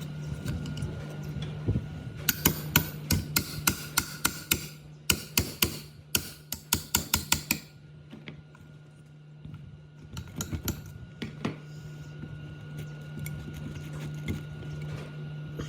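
A run of sharp knocks, about four or five a second, lasting some five seconds, then a few more near the end, over a steady low hum.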